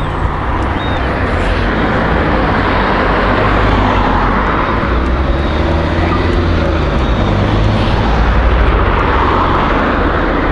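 Road traffic: cars passing along a street, two of them swelling and fading about four and nine seconds in, over a steady low rumble.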